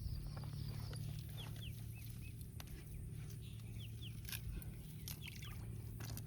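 Bird calls: short high chirps, mostly in pairs, repeating every second or so, over a steady low hum, with a few faint clicks.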